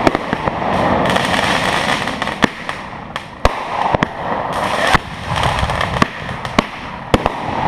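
Aerial fireworks bursting overhead: a string of sharp bangs at uneven spacing, about one or two a second, over a continuous hiss.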